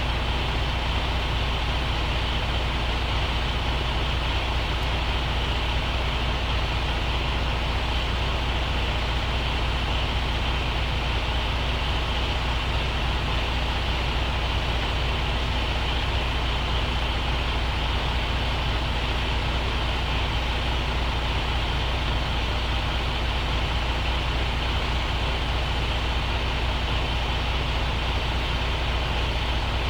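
Semi-truck diesel engine running steadily with an even low rumble.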